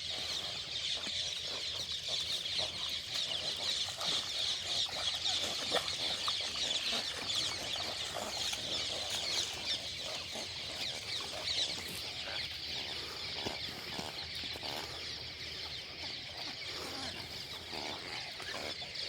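Many birds chirping together in a dense, continuous chatter of overlapping high chirps, a little louder in the first half.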